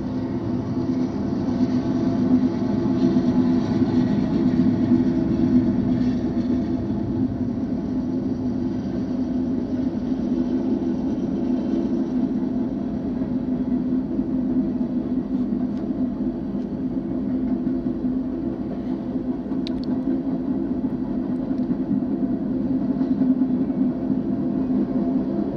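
BNSF manifest freight train rolling past: a steady, continuous rumble of the cars on the rails with a low hum, and a brief sharp click a little before the end.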